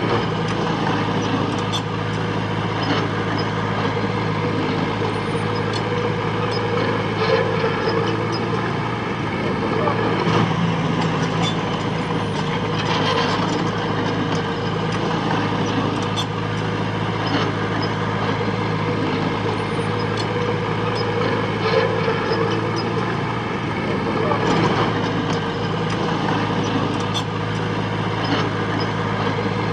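Heavy earthmoving machine's diesel engine running steadily under load, with scattered light clicks throughout.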